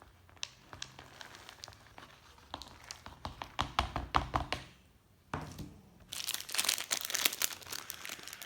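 Knife chopping walnuts on a cutting board: irregular short knocks and clicks. From about six seconds in, a dense crinkling crackle takes over.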